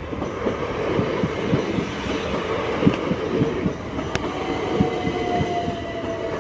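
Southern Class 377 Electrostar electric multiple unit passing over the level crossing: a steady rumble with wheels clattering over the rail joints, and a faint whine that falls slightly in pitch over the last two seconds.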